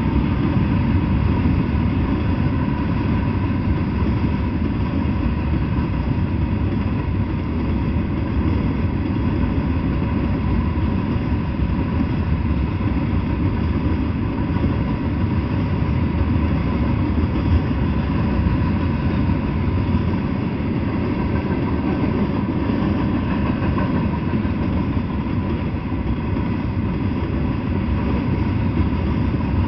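Freight train of flatcars loaded with steel coils rolling past: a steady low rumble with a thin, steady higher hum above it.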